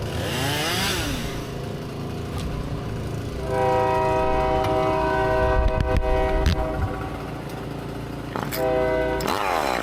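Train horn sounding a long blast of about three seconds, then a short blast near the end. A chainsaw revs up and down briefly near the start and again at the end.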